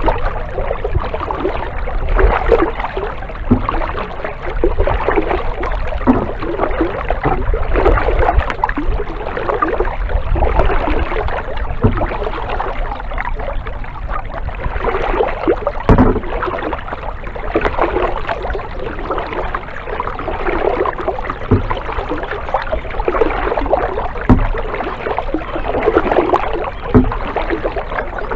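Kayak paddling: repeated swells of paddle strokes splashing through the water, with a few sharp knocks scattered through.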